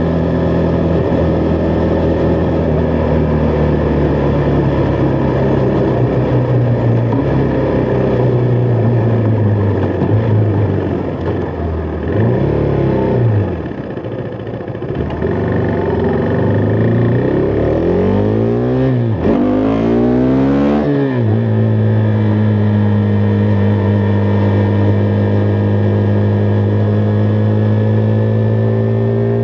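Husqvarna Vitpilen 401's single-cylinder engine running under way: steady for about ten seconds, then the revs climb and fall several times through gear changes in the middle, before settling into a steady cruise for the last third.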